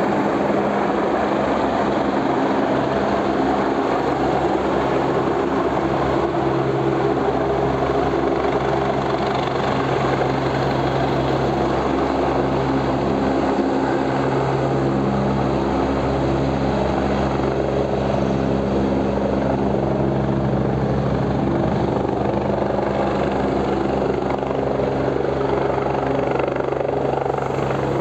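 Helicopter running steadily: an even engine hum over the rapid beat of the rotor blades, with no rise or fall in level.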